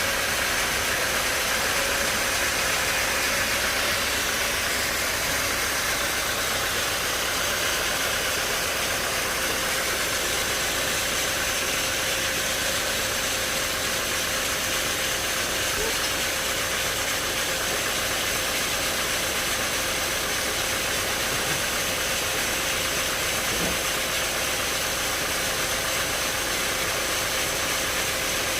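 Sawmill machinery running steadily, a continuous mechanical noise with a constant mid-pitched whine.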